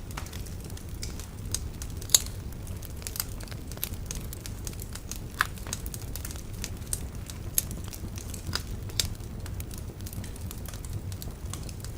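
Wood bonfire burning, crackling and popping irregularly with sharp snaps, the loudest about two seconds in, over a steady low rumble.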